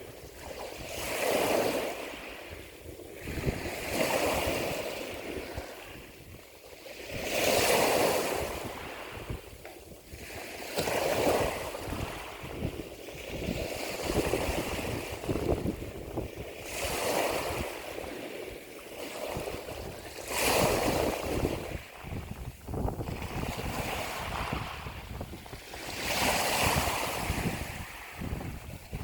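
Ocean waves breaking and washing in, the surf rising and falling back every few seconds.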